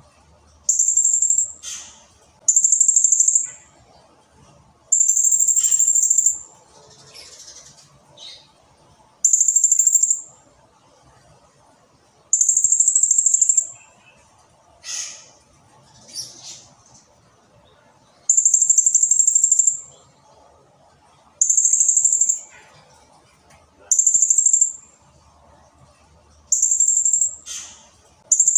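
Blue-crowned hanging parrot (serindit) calling: about ten very high, fast-pulsed trilled bursts, each about a second long, repeated every two to three seconds, with a few short descending notes between them.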